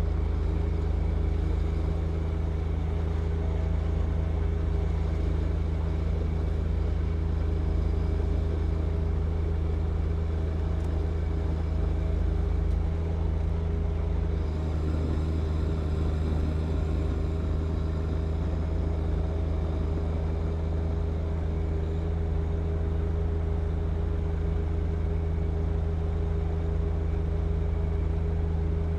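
Snow-clearing machine's engine running at a steady, constant speed with a low, even drone.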